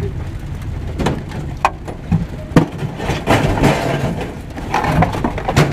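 Pieces of scrap metal being unloaded and dropped, a series of irregular clanks and knocks over a low, steady engine drone.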